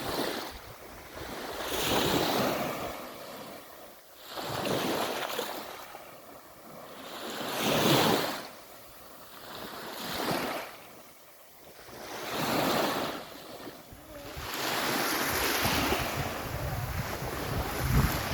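Sea waves washing onto a beach, each wash swelling and fading about every two to three seconds, running more continuously in the last few seconds.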